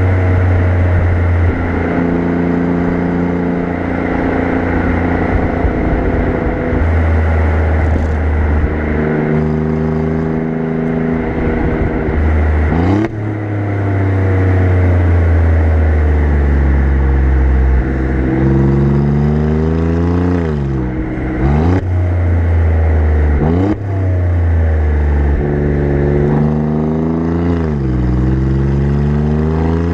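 Alfa Romeo Giulia Quadrifoglio's twin-turbo V6 exhaust heard close up at the tailpipes while driving. It cruises steadily at times, and the engine speed rises and falls several times as the car accelerates and shifts gears, with quick rise-and-drop changes around the middle and near the end. Road and wind noise run underneath.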